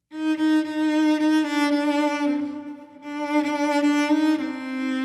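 Bowed cello playing long sustained notes. The pitch steps down twice, with a brief fade between phrases about halfway through.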